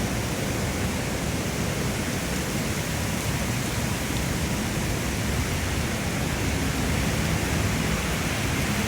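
Heavy rain pouring down steadily in a thunderstorm downpour, a dense even hiss, slightly louder near the end.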